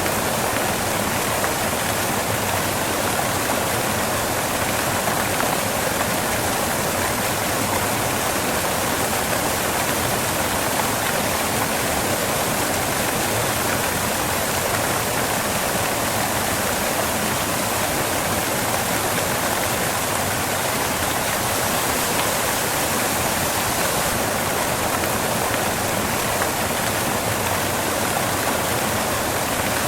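Waterfall, water crashing onto rocks in a steady, unbroken rush.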